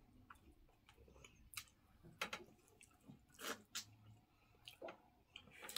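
Faint chewing and wet mouth sounds from people eating, with a few short scattered smacks and clicks.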